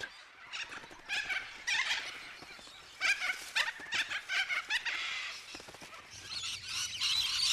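A flock of little corellas screeching: harsh, repeated calls in the first few seconds, thickening into a dense chorus of many overlapping calls near the end.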